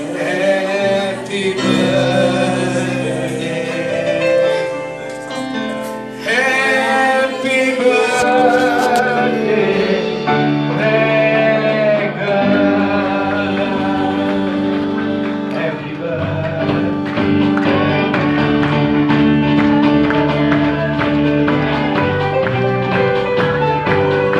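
Singing with instrumental accompaniment: wavering sung melody over sustained chords.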